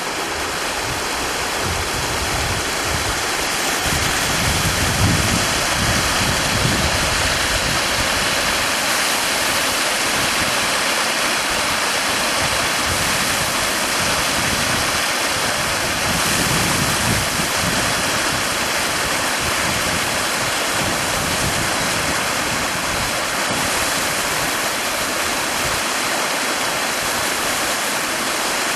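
Waterfall: water pouring and splashing in a steady, loud rush, with a few low rumbles along the way.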